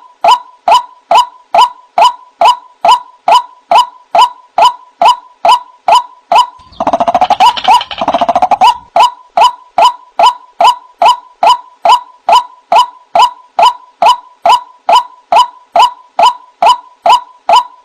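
White-breasted waterhen (ruak-ruak) calling: short, evenly repeated notes about three a second. About seven seconds in, a faster, denser run of calls lasts some two seconds before the steady rhythm resumes.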